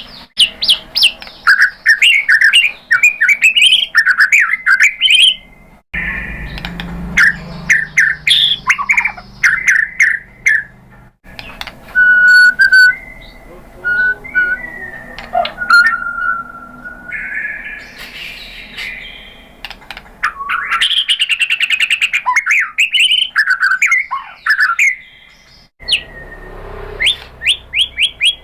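White-rumped shama (murai batu) singing a loud, fast, varied song of whistles, trills and chattering notes, with a few longer held whistles in the middle. The song breaks off and starts again abruptly a few times.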